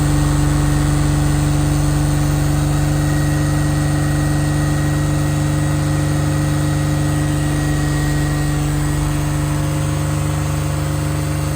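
Detroit Diesel 6V92 turbo two-stroke V6 diesel in a Kenworth truck idling steadily, warming up after a cold start.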